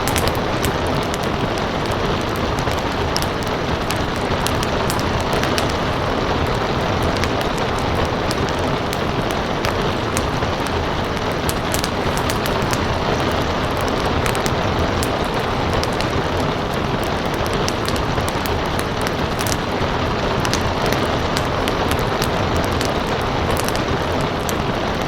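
Steady rain falling mixed with a crackling wood fire, its pops and snaps scattered irregularly through a dense even hiss.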